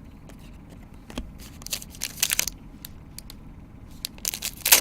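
Foil baseball card pack wrapper being torn open and crinkled, in bursts of crackling about a second and a half in and again near the end, with light clicks of cards being handled.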